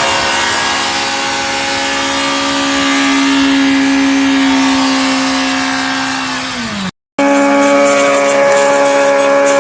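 Motorcycle engine held at high, steady revs during a burnout, with a hiss of tyre noise. Just before the end the revs drop and the sound cuts off abruptly, then another bike starts at a similar high, steady pitch.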